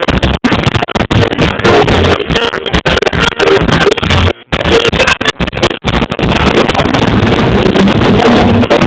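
Live reggae band music captured through an overloaded phone microphone: heavily distorted and buffeted by wind noise, with repeated brief dropouts, the longest about halfway through.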